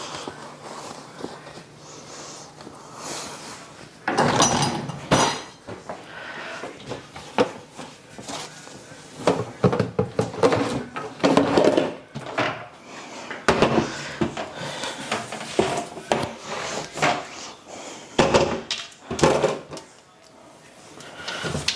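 Plastic fridge shelves and drawers knocking, clattering and scraping as they are handled and slid into place. The knocks come irregularly and get busier and louder from about four seconds in.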